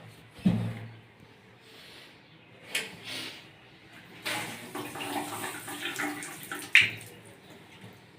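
Water running in a toilet flush tank, with three sharp knocks.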